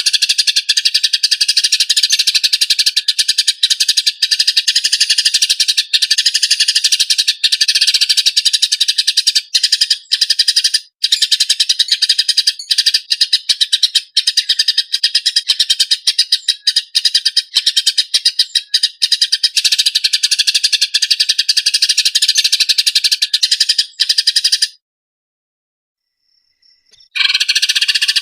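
Eurasian tree sparrows (burung gereja) in a fast, dense, harsh chattering of fighting calls, a rapid unbroken stream of chirps. Near the end it stops dead for about two seconds, then starts again.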